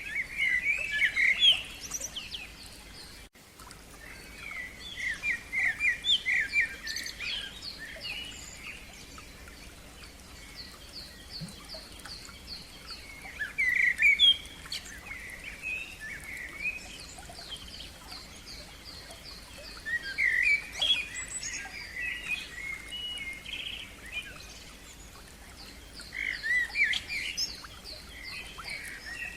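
Songbirds singing: short bright song phrases about every six seconds, with long runs of quick repeated high notes between them, over a faint steady stream.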